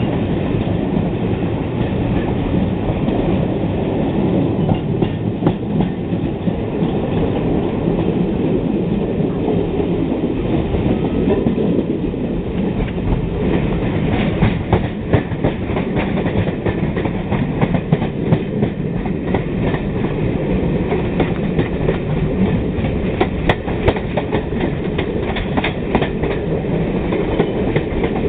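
Train rolling along the track, its wheels clicking over rail joints in a steady clickety-clack, with the clicks coming thicker in the second half.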